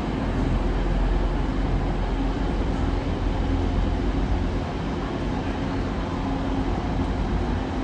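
Train running at a station platform: a steady low rumble.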